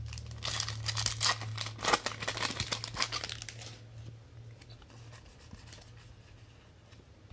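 Plastic wrapper of a football trading-card pack crinkling and tearing for about three seconds, then going quiet, over a steady low hum.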